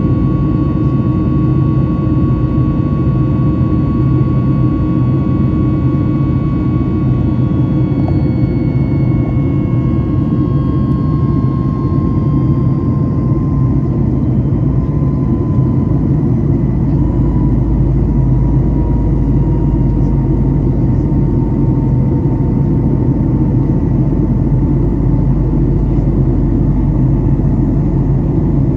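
Boeing 737 MAX 8 CFM LEAP-1B jet engines heard inside the cabin in flight: a steady loud rumble with a whine. The whine slowly drops in pitch through the middle of the stretch as engine power is eased back.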